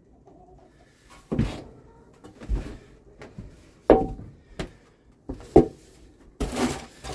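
Shovel scraping and knocking on a wooden floor while mucking out wet chicken-coop bedding: a series of separate scrapes and knocks, the sharpest about four seconds in, with a longer scraping stretch near the end.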